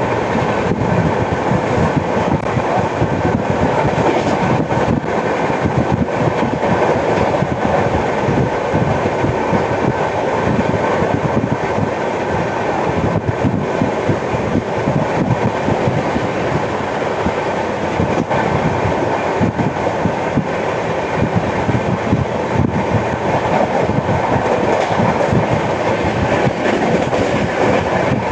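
Indian Railways express passenger train running at speed, heard from on board: steady wheel-and-rail rumble with clickety-clack and a scatter of knocks. The uploader calls the track sound a flat wheel.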